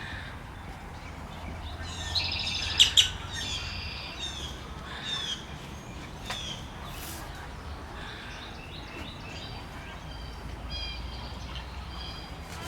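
Birds chirping and calling, with a cluster of loud, fast chirps about two to three seconds in, then scattered calls and another run of chirps near the end, over a steady low rumble.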